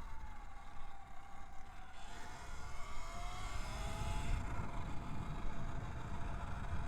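Electric dirt bike's motor whining while riding, its pitch sliding down and then climbing again about halfway through as speed changes, over a steady rumble of wind on the microphone.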